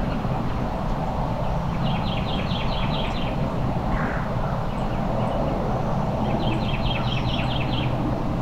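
A songbird sings twice, a few seconds apart, each time a quick phrase of rapidly repeated high notes, over a steady low rumble.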